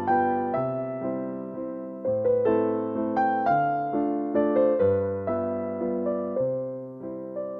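Background piano music: a slow melody of struck notes that ring and fade, over bass notes that change every second or two.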